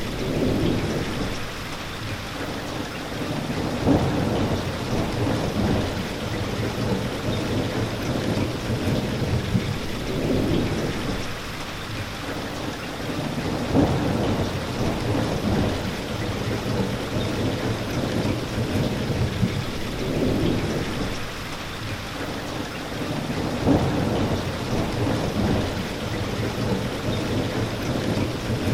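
Steady rain falling, with low rumbles of thunder swelling and fading every few seconds.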